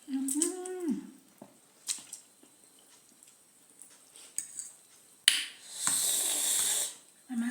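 A person eating very spicy noodles: a short wordless 'mmm' hum that rises and then drops at the start, a few faint clicks of eating, then a loud hiss lasting about a second and a half, about five seconds in, and another 'mmm' hum starting at the very end.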